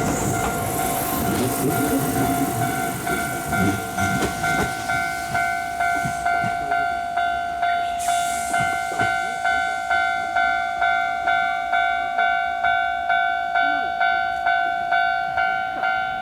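A Kintetsu limited express train passes, its wheels and running noise fading over the first few seconds. A level-crossing alarm rings throughout with a steady two-tone ding about twice a second.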